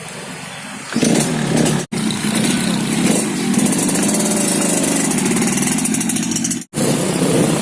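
A 2003 Yamaha RX-King's two-stroke single-cylinder engine running and revving. It comes in loudly about a second in and cuts out to silence twice, briefly.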